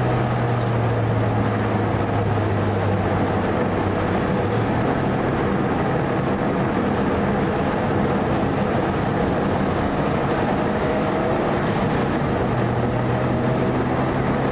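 Mitsubishi Lancer Evolution IV's turbocharged four-cylinder engine running at fairly steady revs, heard from inside the cabin, with a steady hiss of tyre and road noise.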